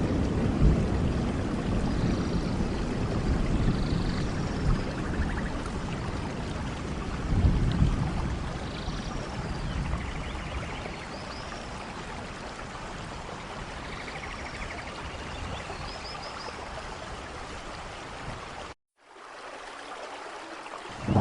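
Steady rainfall with low rumbling swells in the first half, and faint short high chirps scattered over it. Near the end the sound cuts out for a moment and comes back quieter.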